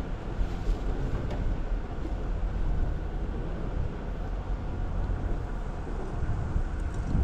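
Jeep Wrangler Rubicon driving slowly on an off-road trail: a steady low engine and drivetrain rumble with road noise over it.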